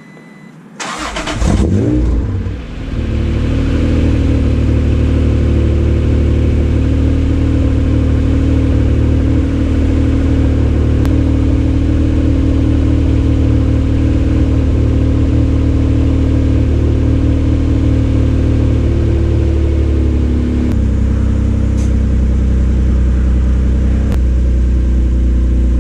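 Acura NSX's V6 starting through a newly installed aftermarket exhaust: it fires about a second in, flares briefly in revs, then settles into a steady idle that drops slightly about twenty seconds in.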